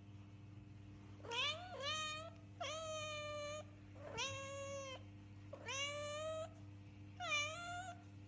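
A domestic cat meowing six times in a row, some calls short and others drawn out to about a second, with a steady low hum underneath.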